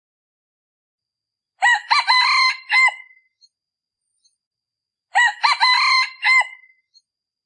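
Male decoy rooster of the kind used to lure wild junglefowl, crowing twice. Each crow lasts about a second and a half, the second starting about two seconds after the first ends.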